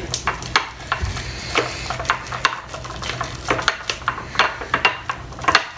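A spoon stirring homemade slime in a bowl: irregular scrapes and clicks of the spoon against the bowl, several a second.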